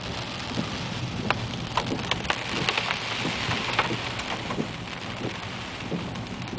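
Heavy rain hitting a moving car: a steady hiss dotted with many sharp drop impacts, over a low rumble from the car.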